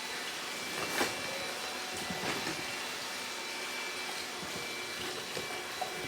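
Robot vacuum cleaner running: a steady suction-and-brush noise with a faint high whine. A couple of light knocks come about a second in and again near two and a half seconds.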